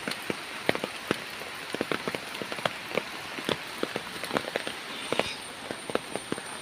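Rain falling: many irregular drops tapping over a steady hiss.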